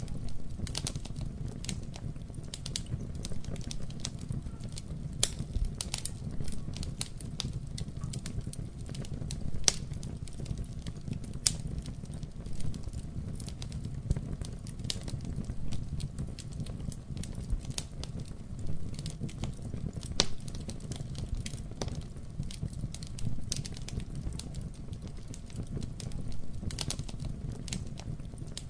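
Wood fire burning in a fireplace: a steady low rumble of flame with frequent irregular crackles and pops, a few of them sharper and louder.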